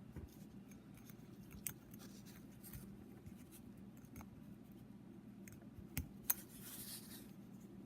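Faint small clicks and a brief scrape of a thin steel piston-ring rail being worked onto a piston by hand.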